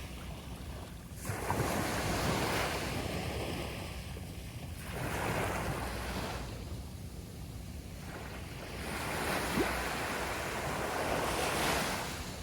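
Sea waves washing onto a beach, three swells of surf rising and falling, over a steady low rumble.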